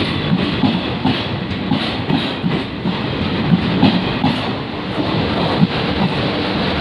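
Passenger coaches of a departing express train rolling past close by, their wheels clattering over rail joints in an uneven run of clacks over a steady rumble. The clacks thin out near the end as the last coach goes by and the train pulls away.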